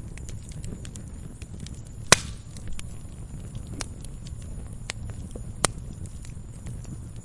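Wood fire crackling in a fireplace: a steady low rumble with scattered sharp crackles, and two loud pops, about two seconds in and again about three and a half seconds later.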